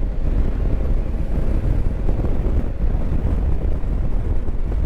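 Steady wind rush and low rumble on the microphone of a rider on the move on a motorcycle, with no distinct engine note standing out.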